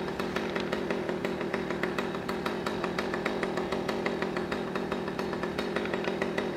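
Chainsaw running at a steady speed, a constant drone with regular sharp ticks several times a second.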